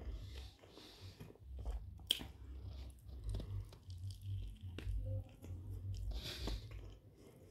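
A person biting into and chewing a large steak burrito in a soft flour tortilla, with uneven chewing pulses and small mouth clicks; one sharp click about two seconds in.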